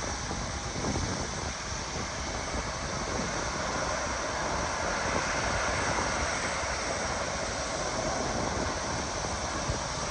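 Jet airliner on landing approach, its engines a steady rushing noise that swells a little around the middle, with wind buffeting the microphone.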